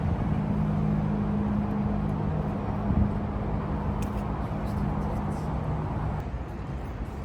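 A steady low two-note mechanical hum, typical of a vehicle's running gear, over outdoor traffic noise, fading after about six seconds. A single knock comes about three seconds in.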